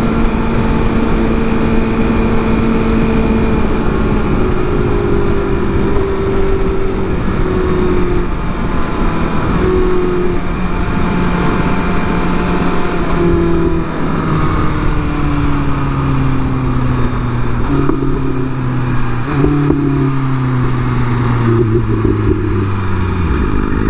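Inline-four superbike engine slowing down over heavy wind noise, its pitch sagging steadily and jumping up several times as it is shifted down through the gears, then falling away to a low pitch near the end as the bike comes off the road speed.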